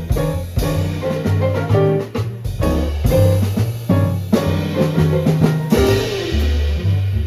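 Small jazz group playing a swing tune: piano soloing over a walking bass line, with drum kit and cymbals keeping time.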